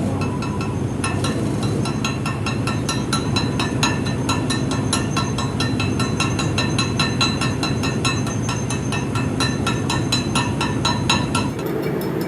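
Rapid metal-on-metal hammer strikes on steel, several a second, each with a ringing clang, over a steady low machine hum. The hammering begins about a second in and stops shortly before the end.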